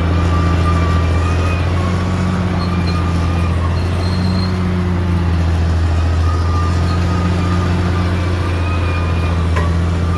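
Caterpillar D6R XL bulldozer's diesel engine running steadily under load, with a whine that rises and fades every few seconds. There is a single sharp click near the end.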